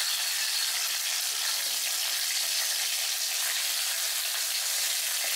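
Ginger-garlic paste sizzling in hot oil in a metal kadai, with a steady hiss, while a wooden spatula stirs it around the pan.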